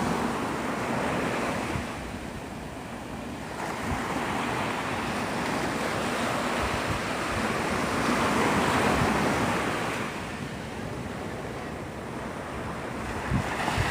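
Ocean surf breaking and washing up the beach, swelling to its loudest about eight or nine seconds in, with wind buffeting the microphone.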